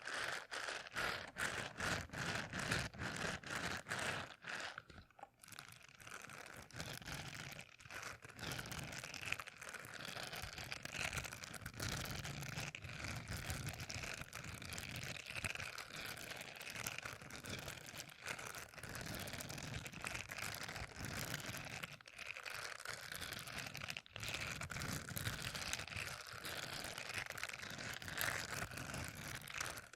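Close-miked ASMR trigger sounds made by handling an object at the microphone: a quick run of crisp clicks, about three a second, for the first five seconds, then a continuous crackly, crinkly rustle.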